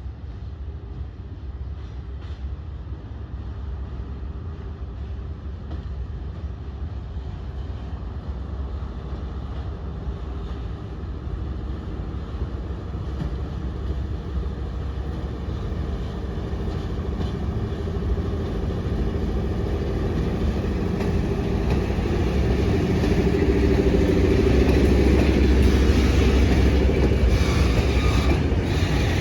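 A train approaching, its engine and rumble growing steadily louder and reaching full loudness near the end.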